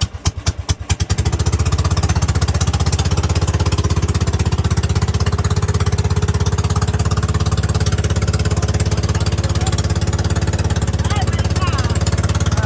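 A boat engine running, its strokes slow and separate at first, then speeding up about a second in to a fast, steady run as the boat gets under way.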